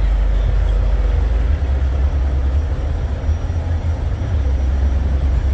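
Semi truck diesel engine idling with a steady low rumble.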